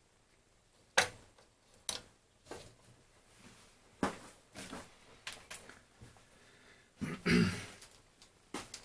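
Sharp clicks and light knocks of the BeoCom 2 phone's small plastic parts being handled, half a dozen spaced over several seconds, and a throat clearing about seven seconds in.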